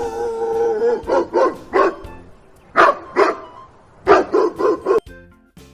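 A dog barking in quick runs of two to four barks, nine barks in all.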